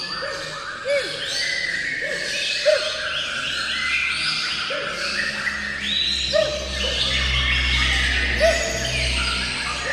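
Several songbirds singing at once, a dense overlap of high chirps and trills, with a lower short call repeating every second or two.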